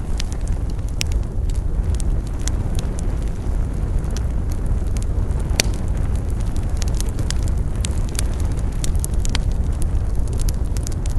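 Wood campfire crackling, with irregular sharp pops over a steady low rumble; one louder pop comes about halfway through.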